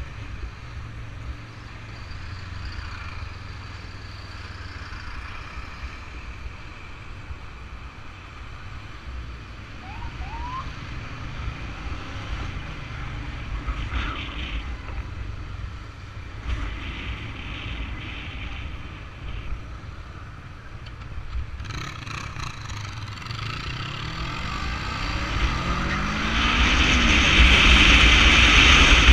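Kawasaki Versys 650 parallel-twin motorcycle engine running on the move, with road and wind noise. Late on, the engine note rises as the bike accelerates, and the wind noise grows loud.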